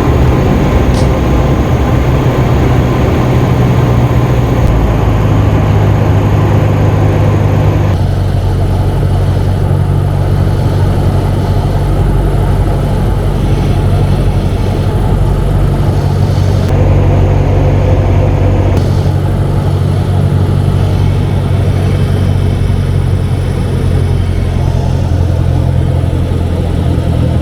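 Cessna 172 Skyhawk's piston engine and propeller droning steadily, heard from inside the cabin, with a couple of abrupt shifts in the sound where the footage is cut.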